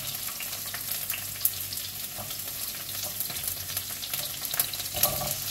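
Green bell pepper frying in hot oil in a frying pan: a steady sizzle, broken by a few sharp clicks, the loudest about a second and a half in and again near the end.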